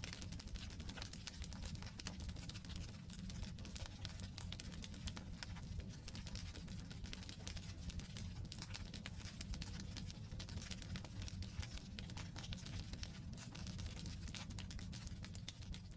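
Wood campfire burning: dense small crackles and pops of the logs over a steady low rumble of the flames.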